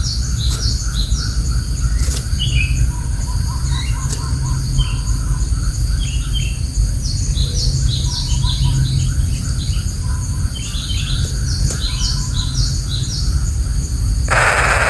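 Birds chirping in quick runs of short, high, descending notes, over a steady low rumble. A brief rustling burst comes near the end.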